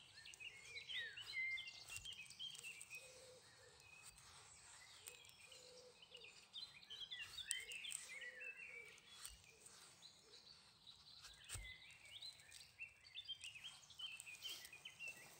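Faint birdsong: repeated bursts of quick, high chirping notes, with a few faint knocks.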